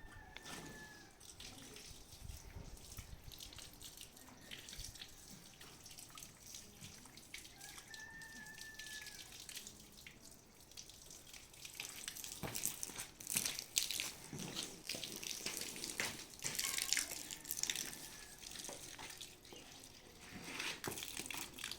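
Water splashing and trickling in irregular bursts, heavier from about halfway through. Two short high calls, one at the very start and one about eight seconds in.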